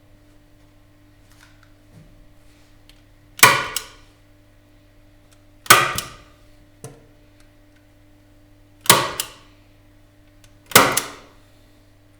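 Four sharp impacts a few seconds apart, each with a short ringing tail, over a steady low hum.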